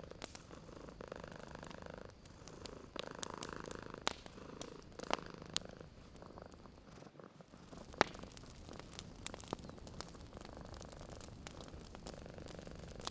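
A cat purring steadily in slow swells with each breath, over a wood fire crackling with scattered sharp pops, the loudest about five and eight seconds in.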